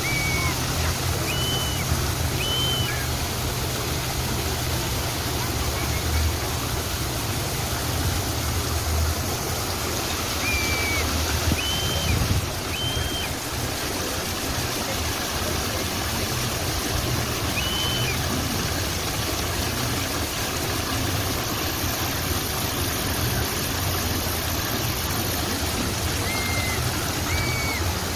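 Steady rush of flowing water, like a stream or small waterfall, with short high bird chirps, singly or in pairs, every few seconds.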